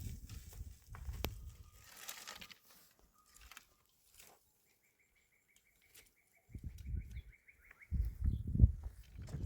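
A small bird singing a rapid trill of quickly repeated high notes for about three seconds, in a quiet spell. Low rumbles, like wind on the microphone, come before it and return near the end.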